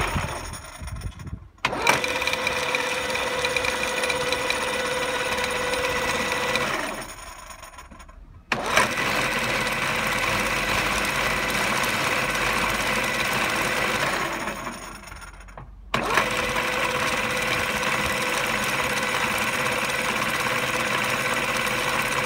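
Model 165 heavy lathe running under power with a steady gear whine. Twice it is shut off and winds down over about two seconds, then starts again abruptly, the pitch of the whine changing between runs.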